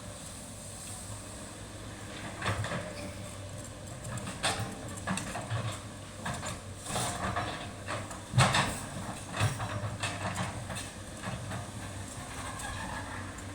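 SANY excavator engine running steadily at a sand mine, with an irregular series of knocks and clanks from the machine working between about two and twelve seconds in, the loudest about eight seconds in.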